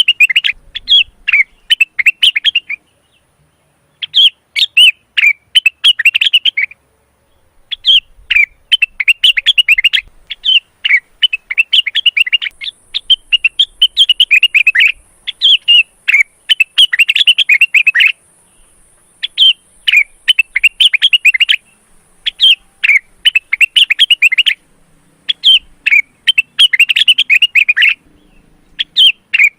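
Male cucak wilis (rengganis) leafbird singing in breeding condition: fast, chattering, twittering phrases of one to three seconds, broken by short pauses.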